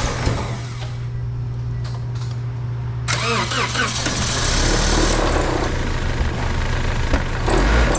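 2006 Toyota Corolla four-cylinder engine, its crankcase filled with Purple Power degreaser instead of oil, turning over on the starter and trying to run. It gets louder and rougher about three seconds in, with heavy low thumps later on.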